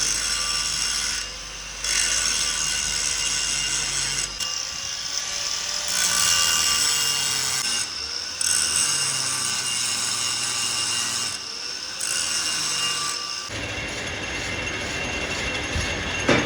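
Power tool machining metal: a shrill grinding noise with several steady tones, running in stretches broken by short pauses.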